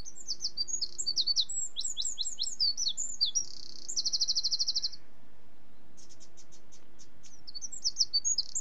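Small bird singing: quick high chirping phrases, a rapid even trill around the middle, then a short pause and more chirping.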